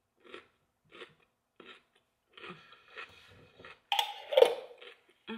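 Close-up chewing of a crunchy homemade garlic pickle: a crunch roughly every two-thirds of a second at first, then denser chewing, with a louder crunchy noise about four seconds in.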